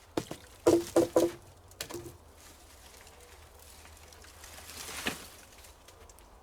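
Pieces of wood knocking together: about five sharp, slightly ringing knocks in the first two seconds, then a short rustle a few seconds later.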